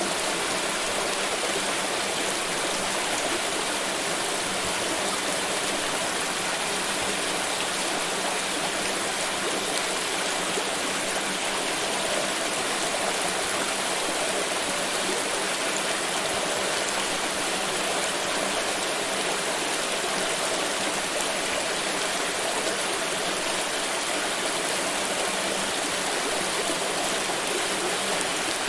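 Water pouring and splashing in a steady, unbroken rush, with no separate drips or splashes standing out.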